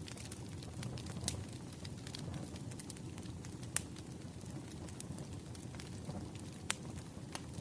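Wood fire crackling: a low steady rush of flames with scattered sharp pops, the loudest about a second in, near four seconds and near seven seconds.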